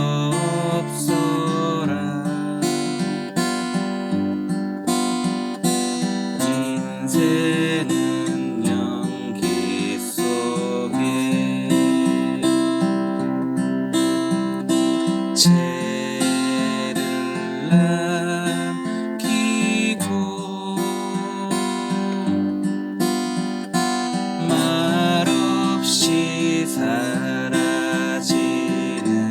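Acoustic guitar strumming a folk song in waltz time.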